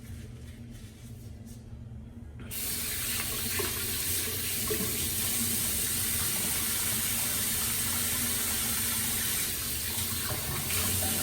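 A sink tap is turned on about two and a half seconds in, and water runs steadily into the basin.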